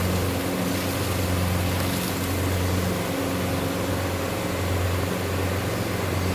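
Steam-heated khoya (mawa) making machinery running steadily, with a low hum that swells and fades roughly once a second over a noisy mechanical background.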